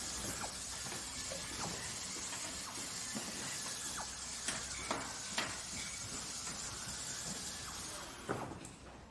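Factory machinery running with a steady hiss and scattered clicks and knocks. A few sharper knocks come midway and one near the end, after which the steady noise drops away.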